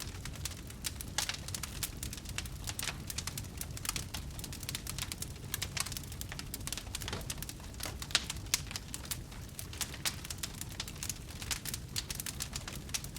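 Burning wood fire crackling: many irregular sharp snaps and pops over a steady low rumble.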